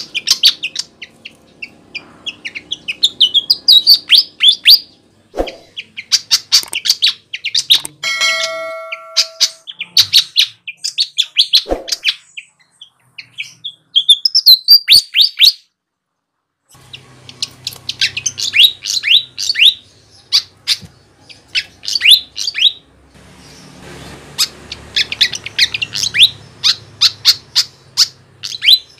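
Flycatcher (sikatan) singing energetically: rapid runs of sharp, high chirps and twittering phrases, with a brief break about halfway through.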